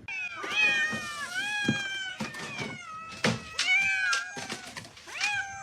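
A cat meowing, four or so long, drawn-out meows one after another, with a few sharp clicks between them.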